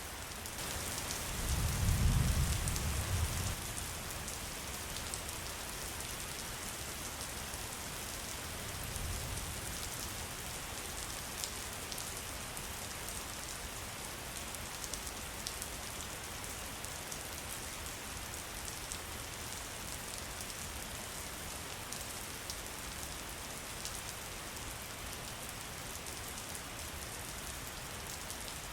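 Steady rain with individual drops ticking on a surface. A low thunder rumble swells about two seconds in, and a fainter one comes around nine seconds.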